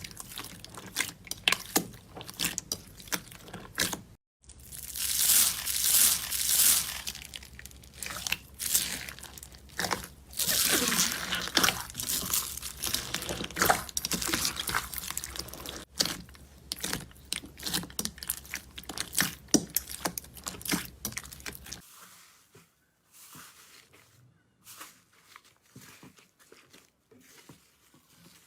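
Slime being pressed and squished, giving close, irregular crackling and crunching pops. The sound changes abruptly twice, and is quieter over the last few seconds.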